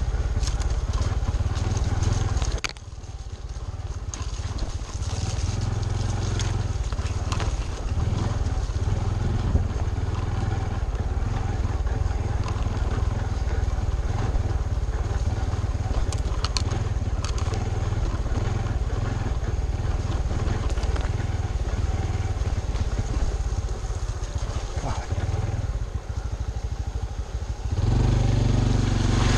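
Honda CT125 Trail 125's single-cylinder engine running as the bike rides a rough trail, with scattered knocks and rattles. The engine drops off suddenly about three seconds in and builds back up, eases again near the end, then picks up louder.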